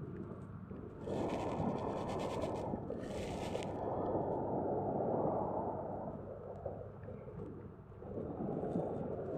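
Sea waves washing in, making a rushing noise that swells and eases. Twice in the first few seconds there is a brief hissing surge as the water runs back.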